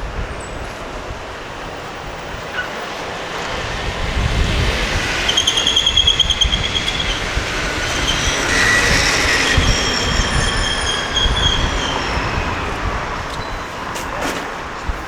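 Train passing close by, its rumble swelling and fading, with high metallic wheel squeals about five seconds in and again later.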